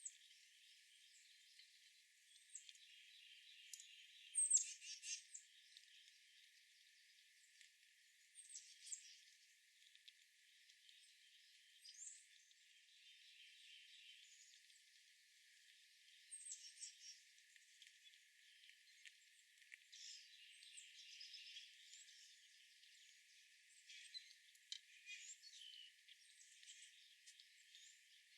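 Faint outdoor birdsong: scattered sharp, high chirps every few seconds, the loudest about four seconds in, with a few short buzzy trills between them.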